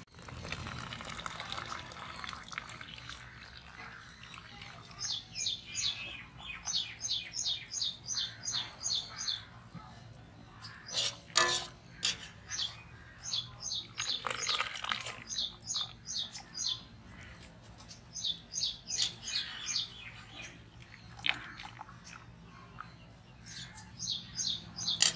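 A bird chirps in quick runs of high notes, about five a second, which break off and start again several times. Water splashes as boiled noodles are lifted from the wok with a wire spider strainer, and about eleven seconds in a sharp knock sounds as the strainer strikes the metal wok.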